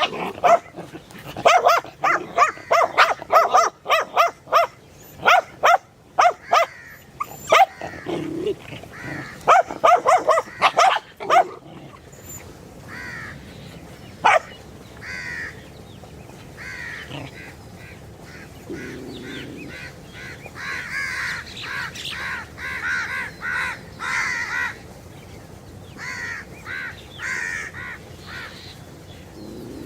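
A dog barking loudly and repeatedly for about the first twelve seconds. After that come quieter short high calls, repeated in groups.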